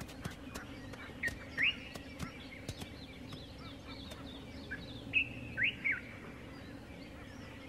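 Birds chirping: a few short, sharp rising whistles, in two groups, over a low steady hum.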